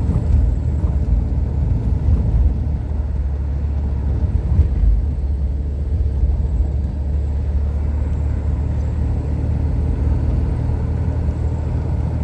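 Steady low rumble of a car driving, heard from inside the cabin: engine and tyre noise on the road, with a brief bump about four and a half seconds in.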